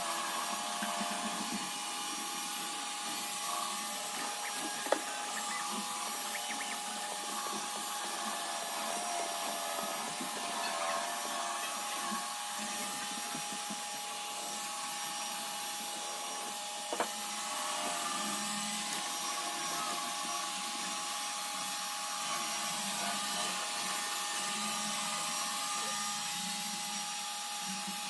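iRobot Roomba robot vacuum running steadily, a constant hum with a steady whine, with two sharp knocks, one about five seconds in and one about two-thirds of the way through.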